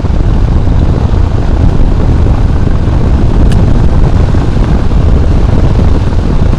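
Wind buffeting a motorcycle rider's camera microphone at riding speed: a loud, dense, steady rumble with the bike's engine underneath. There is a faint click about three and a half seconds in.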